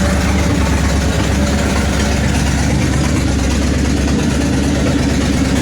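1966 Ford Mustang engine idling steadily and loudly. The exhaust has broken off, so it is running straight off the header on one side.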